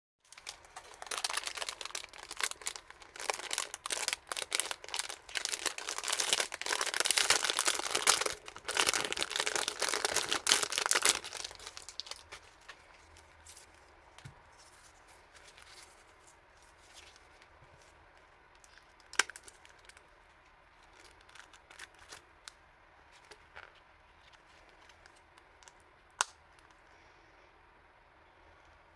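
Plastic packaging being crinkled and torn open by hand for about the first eleven seconds, then quiet handling with a few sharp clicks.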